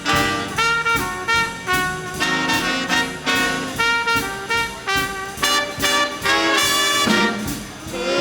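Live swing big band playing an instrumental passage, with trumpets and trombones in short rhythmic ensemble figures over the rhythm section.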